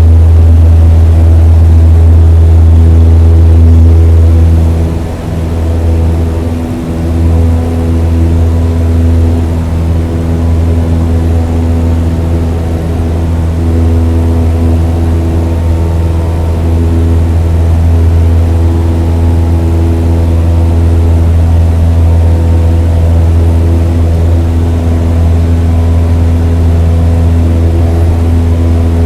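An engine running steadily with a deep drone and a stack of steady tones above it, briefly dipping in level about five seconds in.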